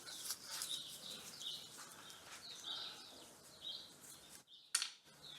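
Small birds chirping repeatedly in the background, short high chirps every half second or so, with one sharp click about three-quarters of the way through.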